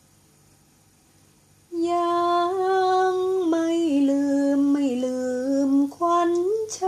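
A woman singing a slow melody in long held notes that step downward, starting about two seconds in after faint hiss.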